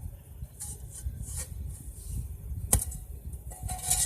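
Rustling and scuffing handling noise over a low rumble, with one sharp click a little under three seconds in.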